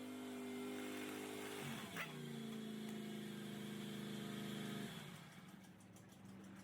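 50cc GY6 scooter engine running at a steady speed. Its pitch dips and picks back up just before two seconds in, where a sharp click sounds. The engine note drops away about five seconds in.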